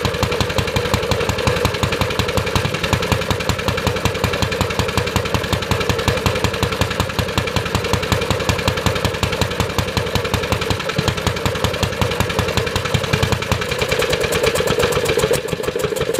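Briggs & Stratton Model FH single-cylinder engine running with a rapid, even firing beat. It begins to slow right at the end.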